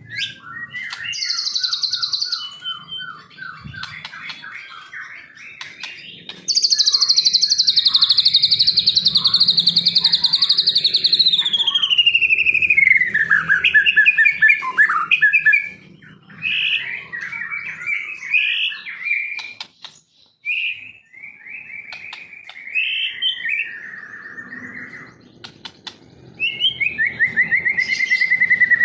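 White-rumped shama (murai batu) singing a long, varied song. It runs through quick trilled runs, a loud harsh high phrase that slides down into a falling whistle, then short choppy phrases with brief pauses between them.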